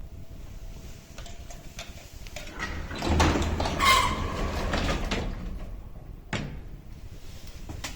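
Automatic sliding doors of a 1978 MOELZ passenger lift moving for about three seconds, with a brief squeal at their loudest, followed by two sharp clicks.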